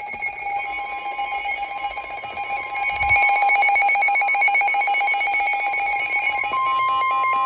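Weather alert radio sounding its electronic alert alarm, a fast even beeping that signals an incoming weather warning. Under it runs the single steady NOAA Weather Radio warning alarm tone, which is left on its own when the beeping stops near the end.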